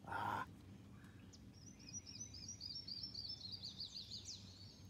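A songbird singing: a string of repeated high, slurred notes that speed up into a quick trill near the end. A short rush of noise comes right at the start.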